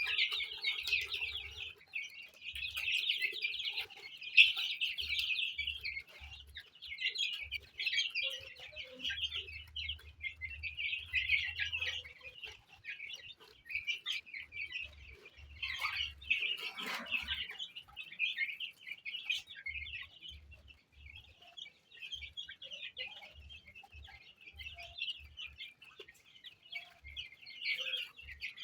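A brood of chicks peeping continuously in a dense, high chorus. A single lower call falls in pitch a little past halfway through.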